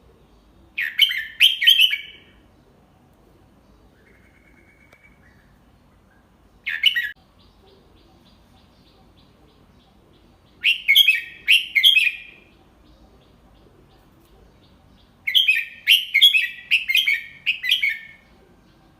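Red-whiskered bulbul singing: four phrases of quick chirping notes a few seconds apart, the second one short and the last one the longest.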